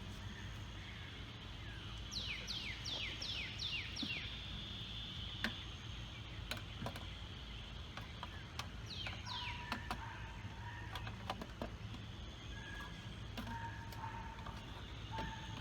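Songbirds calling outdoors: a quick run of about six falling whistles, repeated once later, with other birds holding short steady notes. Scattered sharp clicks sound among them.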